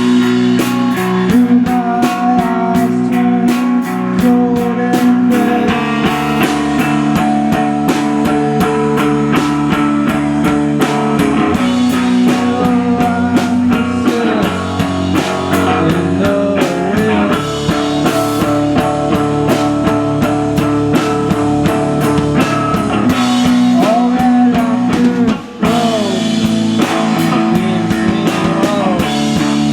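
Live rock band playing: guitars hold sustained chords with sliding, bent notes over a drum kit. The music drops out for a moment about three-quarters of the way through, then comes back in.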